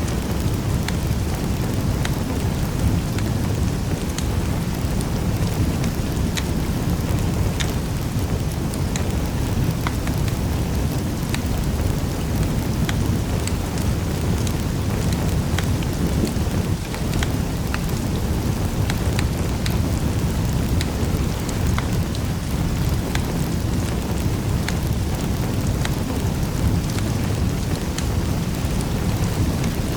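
Wood fire burning in a fireplace: a steady low rumble of the flames with frequent small, sharp crackles and pops.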